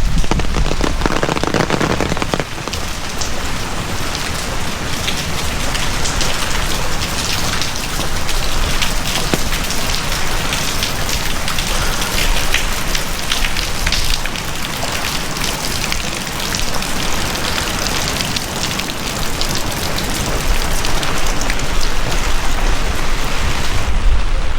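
Heavy rain pouring steadily: a dense hiss of falling water with close, individual drop hits all through. A low rumble fades out in the first couple of seconds.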